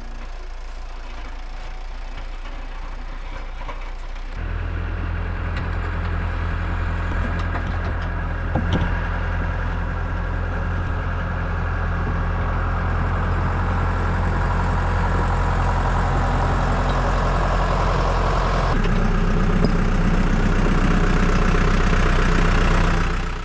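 A vehicle engine running with a steady low hum. It steps up in load and level about four seconds in and keeps growing gradually louder, then drops away just before the end.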